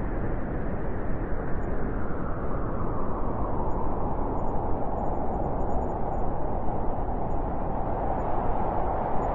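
Blizzard wind howling: a steady rush of noise with a moaning tone that slowly falls in pitch over the first few seconds, then holds.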